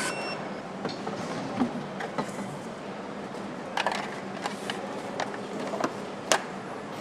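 Factory assembly-hall background noise: a steady machinery hum with scattered metallic clicks and clanks. The sharpest clank comes about six seconds in.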